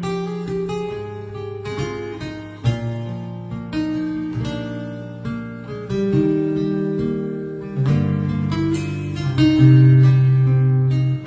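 Acoustic guitar music: a run of plucked notes over sustained bass notes, played back through Sony P707AV loudspeakers.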